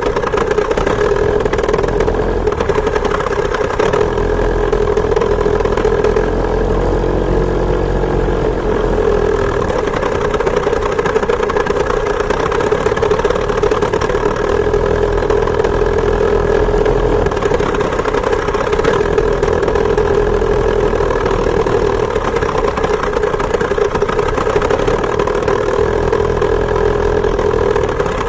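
Two-stroke chainsaw engine driving a homemade moped, running steadily, with a brief dip and rise in pitch about seven seconds in.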